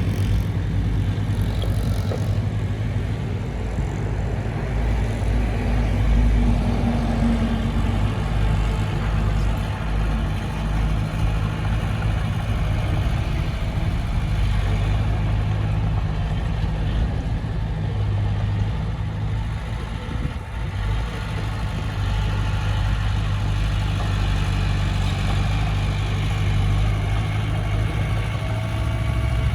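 Heavy diesel engine of a bulldozer or dump truck running steadily at low revs, with a brief rise in pitch about six seconds in.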